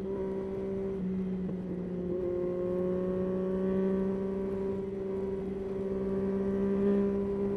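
Yamaha Tracer 9's three-cylinder engine running steadily under way, its pitch creeping slightly upward as the motorcycle gains speed.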